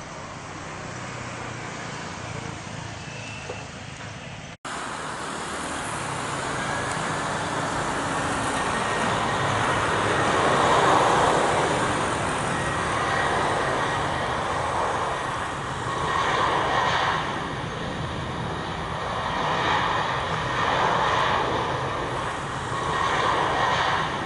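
Jet airliner taking off: loud engine noise with a faint steady whine, building after a sharp cut about four and a half seconds in, then swelling and fading in waves.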